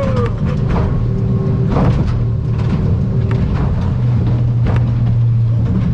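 Outboard motor of a Stabicraft 2050 Supercab aluminium boat running steadily at cruising speed. Sharp knocks come every second or few, from the hull slapping through chop.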